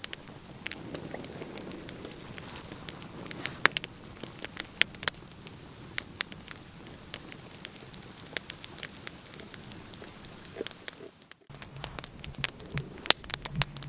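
Wood campfire of dry wood crackling, with irregular sharp snaps.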